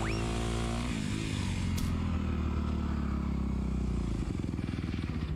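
Dirt bike engine running, with a brief rise in pitch at the start. It then holds steady and low, and from about four seconds in it settles into an even, fast putter like a low idle.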